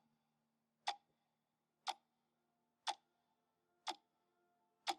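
Quiet, sharp ticks exactly once a second, like a clock ticking, over a faint steady hum.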